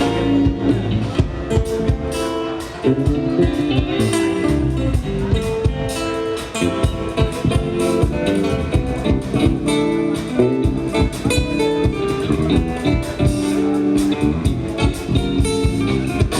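A live band playing, with guitar to the fore; the music runs without a break.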